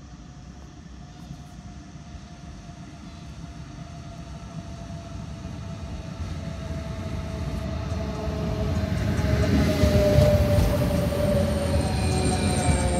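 Renfe class 447 electric multiple unit coming into the station, its rumble growing steadily louder as it approaches, with a whine that falls slowly in pitch as it slows. A high squeal of the brakes and wheels sets in near the end.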